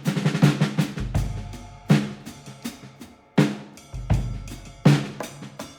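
Background music: a drum-heavy track with snare and bass drum hits over a steady bass line.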